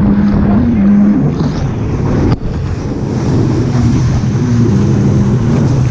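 Jet ski engine running under way, its hum dropping in pitch about a second in as the throttle eases, over the rush of water spray and wind on the microphone.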